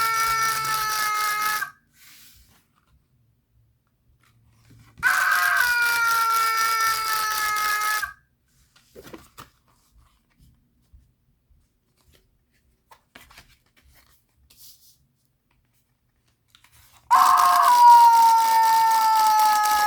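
Sound chip in a novelty Thanksgiving greeting card playing a raspy, high-pitched cry that lasts about three seconds and sags slightly in pitch. It plays three times: one cry already sounding at the start and ending about two seconds in, a second about five seconds in, and a third near the end. Faint clicks of the card being handled come between the cries.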